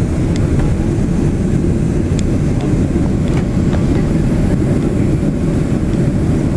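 Steady low rumble of a Boeing 767's engines and airflow heard inside the passenger cabin, with a few faint clicks.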